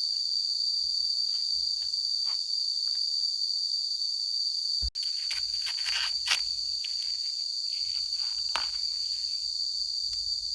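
Insects chirring in one steady high-pitched drone. In the second half there is some rustling and a few sharp snaps, as of corn plants being handled.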